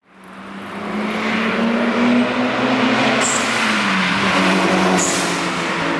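A car's engine and exhaust running loud as the car pulls away. The engine pitch climbs for about two seconds, drops about halfway through, then holds. Two brief high chirps come in the middle.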